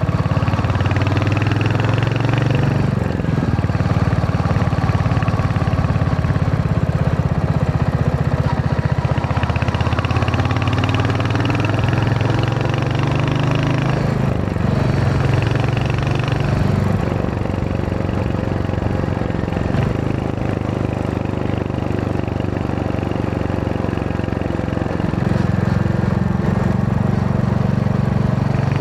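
Royal Enfield Hunter 350's single-cylinder engine running under way, heard through its exhaust. The engine note shifts with throttle and gear changes: it steps up a few seconds in, drops about two-thirds of the way through, and rises again near the end.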